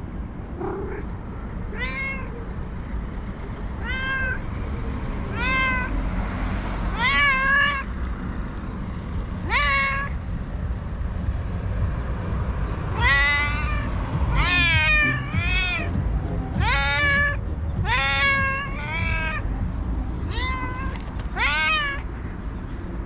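A domestic cat meowing over and over, about fifteen drawn-out meows that each rise and then fall in pitch, coming thick and fast in the second half. A steady low rumble runs underneath.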